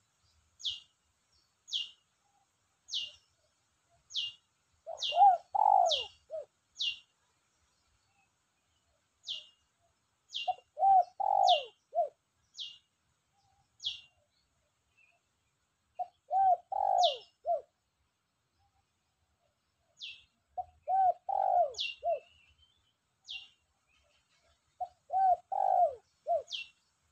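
Spotted dove cooing: five short phrases of three or four coo notes, about five seconds apart, the bird in full song. Over them another bird gives short, high chirps, each falling in pitch, about once a second.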